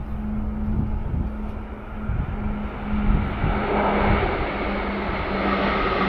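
A motor vehicle's engine humming steadily, with road noise swelling from about halfway through as traffic draws closer.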